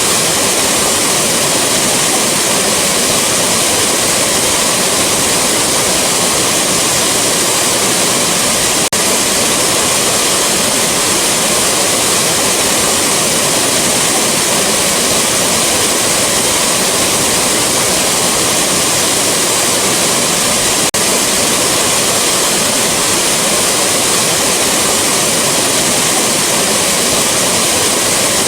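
Rushing waterfall: a steady, loud roar of falling water, even and unchanging.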